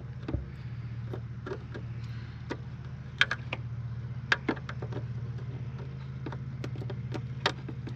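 An engine idling steadily, with several sharp clicks and taps of plastic headlight parts being handled and fitted.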